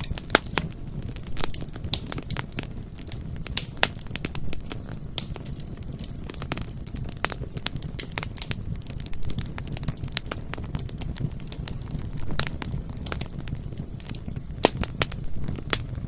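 Bonfire burning, wood crackling and popping in many sharp irregular snaps over a steady low rumble of the flames.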